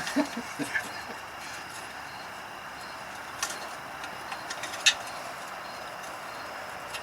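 A few sharp metallic clicks and clinks from hand tools and parts over a steady shop hiss, the loudest about five seconds in.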